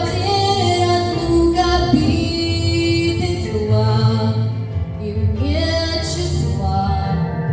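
A female vocalist singing a slow melody with long held notes over instrumental backing with a steady bass line.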